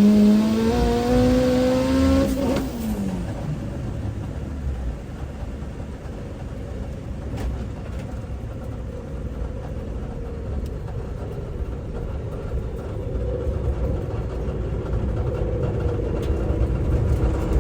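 Turbocharged Honda K-series four-cylinder pulling hard, its note rising for about two and a half seconds, then cutting off suddenly and leaving only a steady low rumble. A faint engine note comes back near the end. The sudden loss of the note fits a driveline breakage, which the driver takes for either the transmission or an axle.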